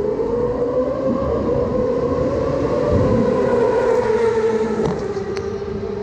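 Racing motorcycle engine running at high revs: a steady whine that climbs in pitch over the first second, holds, then eases slightly near the end.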